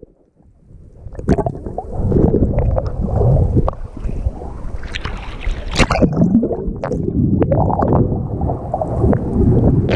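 Wind buffeting a GoPro camera's microphone aboard a yacht at sea, with rushing, gurgling water and scattered sharp knocks; it comes up from near quiet about a second in.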